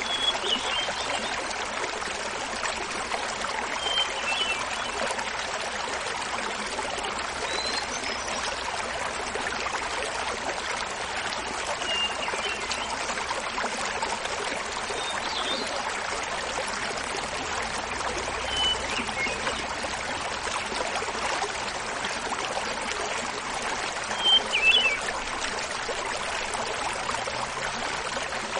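Small mountain waterfall splashing in a steady rush, with a hermit thrush singing short, flute-like phrases over it about every four seconds.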